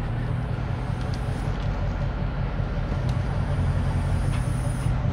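Mercedes SL500's 5.0-litre V8 idling steadily, heard from inside the cabin.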